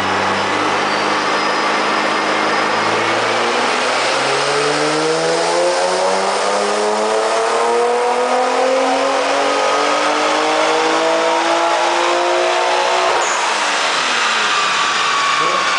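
Twin-turbocharged Nissan 350Z's 3.5-litre V6 under full acceleration in one gear, its pitch climbing steadily for about ten seconds. Near the end it drops suddenly as the throttle closes and the engine winds down.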